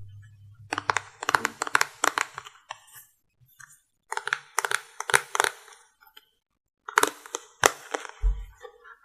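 Makeup items being handled close to the microphone, giving rapid crackling clicks and taps in three bursts with short pauses between them.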